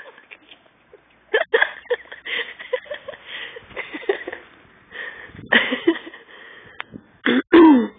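A dog and ducks play-fighting: a string of short, irregular breathy huffs and squeaks, with one loud call falling in pitch near the end.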